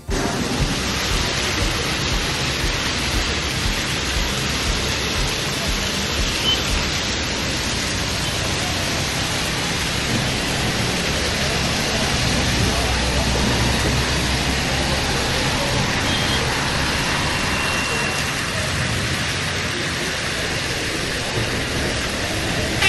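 Heavy rain falling steadily in a thunderstorm downpour.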